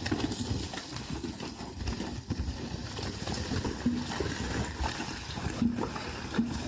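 Rushing floodwater: a continuous loud, churning noise with many small irregular knocks, and a few brief calls a little past the middle and near the end.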